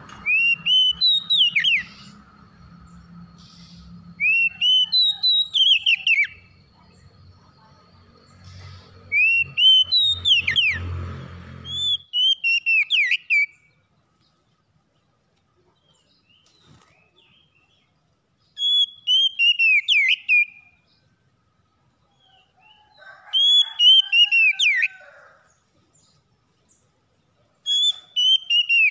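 Oriental magpie-robin singing: short phrases of quick, down-slurred whistled notes, repeated every few seconds. A steady low hum underneath stops about twelve seconds in.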